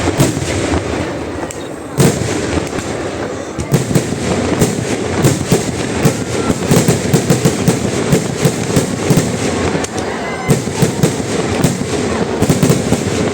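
Fireworks barrage of a vedikkettu finale: a dense, continuous run of firework explosions, with a sharp loud bang about two seconds in and the bursts coming thicker and faster from about four seconds on.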